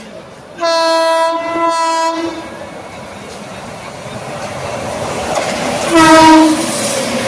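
Indian Railways locomotive horn sounding one long blast. The rumble of an approaching train then grows steadily louder, and a second, shorter horn blast comes near the end.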